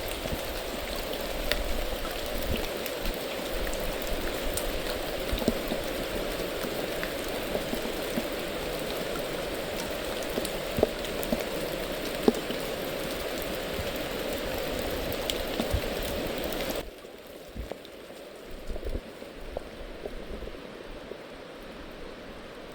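Steady rain hissing, with drops ticking sharply on something close by. About seventeen seconds in, it drops suddenly to a quieter hiss.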